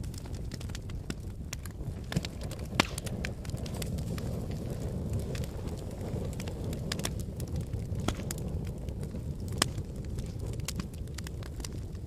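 Wood fire burning in a fireplace: a steady low rumble of the flames with irregular crackles and sharp pops, the loudest pops about three seconds in and near ten seconds.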